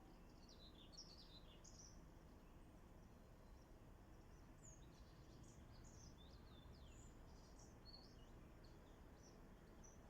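Faint songbirds chirping and twittering with short high notes and quick falling sweeps over a steady low background hum of outdoor ambience.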